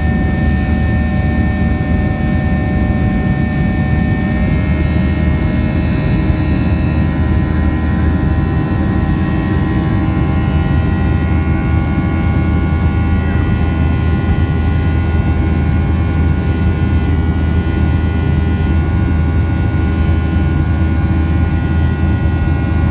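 Steady jet engine and airflow noise heard inside the cabin of a Boeing 737-700 in flight after takeoff, from its CFM56-7B turbofans. It is a constant low rumble with several steady engine tones above it.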